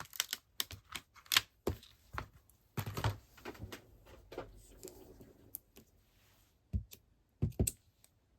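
Rubber-stamping supplies being handled on a craft desk: a run of sharp clicks and taps, then two dull thumps near the end as the stamp is pressed down.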